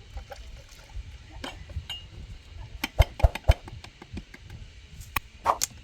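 Scattered light clicks and clinks of hard objects being handled, with a quick run of sharper knocks about three seconds in and two more near the end.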